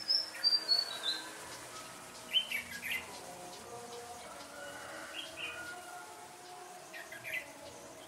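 Red-whiskered bulbuls and other small birds calling: a quick run of high notes falling in pitch at the start, then short chirpy calls three more times.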